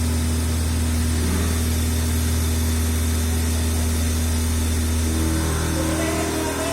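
A machine running steadily with a low, even hum; faint voices come in near the end.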